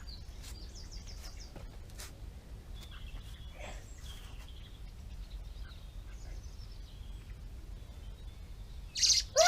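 Blackbirds chirping faintly in short high notes over a steady low rumble on the microphone, then a sudden loud squawk near the end; the parent birds are agitated over their handled fledgling.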